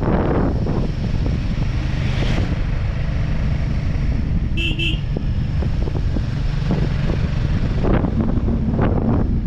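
Motorcycle engine running at road speed under a steady rush of wind. A horn gives two quick toots about four and a half seconds in.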